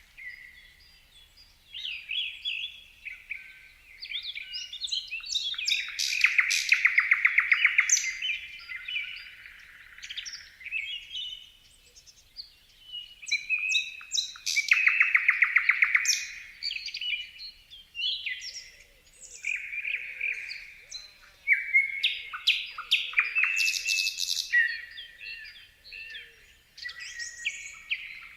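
Songbirds singing and chirping in a run of short varied phrases, with two loud, rapid trills of quickly repeated notes, about a quarter of the way in and about halfway.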